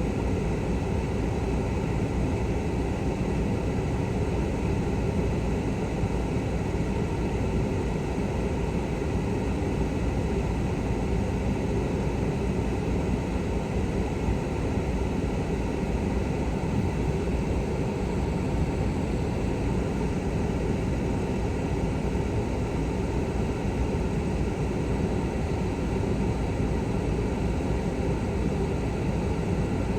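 Steady, unchanging hum and rush of a truck's engine idling, heard from inside the cab.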